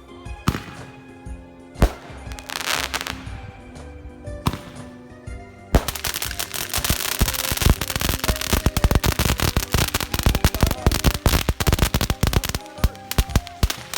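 Fireworks going off: a few single sharp bangs, then about six seconds in a long, rapid string of cracks.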